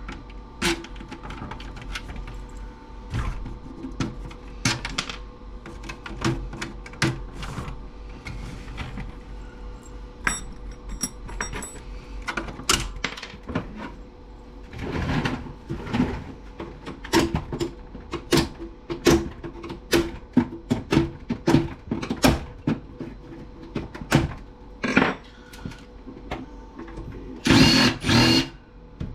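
Irregular clicks, knocks and rattles of tools and loose plastic and metal parts while an Aiwa stereo system is being taken apart, busier in the second half with a few louder clatters near the end.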